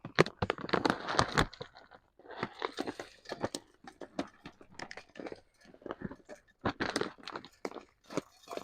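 Hot-pepper-coated nuts and seeds rattling, with a bag crinkling, as bird food is poured and handled into a feeder. Dense crunchy rattling at first, then scattered clicks after about two seconds.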